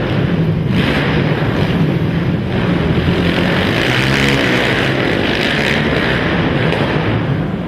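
Racing quad (ATV) engines running hard, their pitch rising and falling as they rev.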